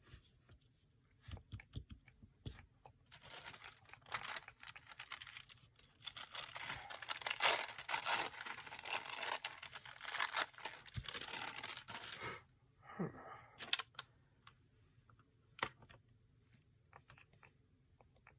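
Paper being torn and handled, a dense stretch of tearing and rustling from about three seconds in until about twelve seconds, with a few light handling taps before and after.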